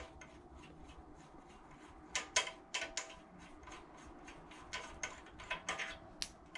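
Faint metallic clicks of a hand wrench working the rocker arm nuts on a Predator 212 engine's cylinder head, loosening them to swap in ratio rockers. The clicks come in two short runs of about four to five a second, one about two seconds in and one near the end.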